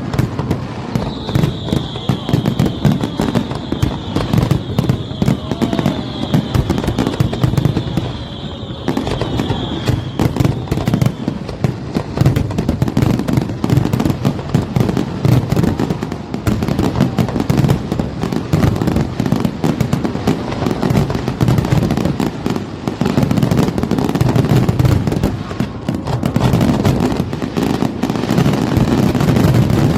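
Fireworks display: a dense, continuous barrage of bangs and crackles, with a high whistle held from about a second in until about eleven seconds.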